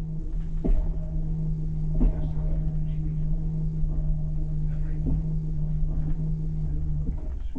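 Passenger train rolling slowly, heard inside the carriage: its wheels give a few dull knocks over rail joints, spaced a second or more apart, over a low rumble. A steady hum from the carriage's equipment runs underneath and stops near the end.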